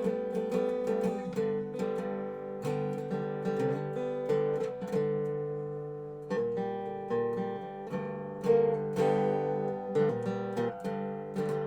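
Dobro resonator guitar played solo in a blues jam, a run of picked notes ringing over sustained open-string drones.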